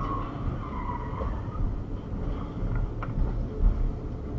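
Car driving noise picked up by a dashcam: a steady low engine and road rumble, with a faint wavering whine in the first second and a half.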